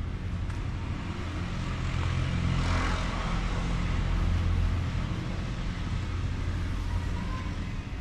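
Road traffic rumbling, with a vehicle passing that is loudest a few seconds in.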